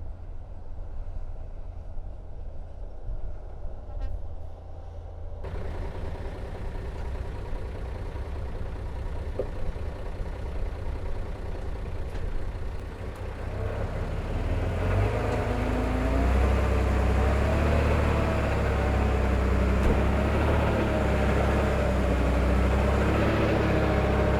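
Heavy diesel machinery engines running with a low, steady rumble; about fifteen seconds in a nearer engine grows louder, its pitch wavering up and down as it works.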